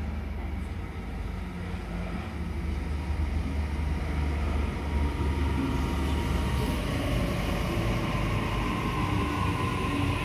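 Sydney Trains double-deck electric train coming alongside the platform and passing close by, a continuous rumble of wheels on rails. A steady higher whine comes in over the rumble in the second half.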